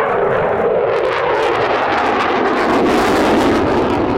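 Loud jet noise from an RAF Eurofighter Typhoon's twin EJ200 turbofan engines as it flies its display. The pitch falls over the first couple of seconds, and a ragged crackle follows.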